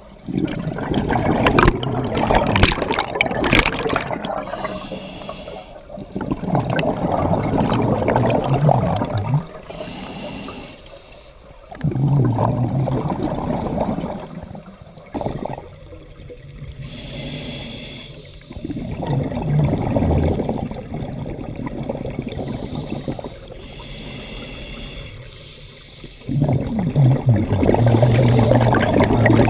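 Scuba diver breathing through a regulator underwater: a hiss on each inhale, then a burst of bubbling exhaust bubbles on each exhale, about five breaths.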